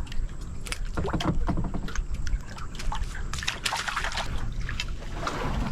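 Wind rumbling on the microphone, with irregular rustling and knocking sounds scattered through it.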